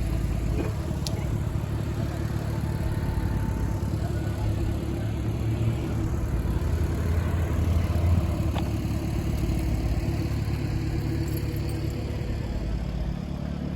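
A car engine idling with a steady low rumble, growing a little louder for a moment a little past the middle.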